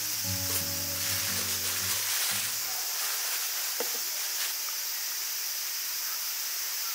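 Food sizzling as it fries: a steady high hiss with small crackles. Soft background music ends about two and a half seconds in.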